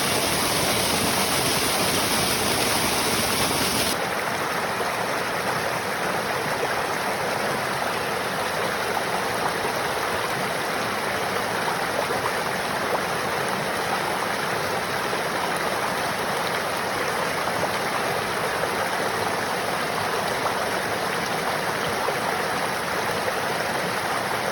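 Mountain stream flowing with a steady rush of water. About four seconds in, the high hiss drops away and the rush turns softer.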